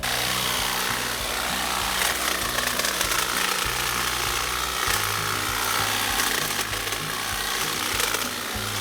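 Power hedge trimmer running steadily while cutting through hedge branches, with background music underneath.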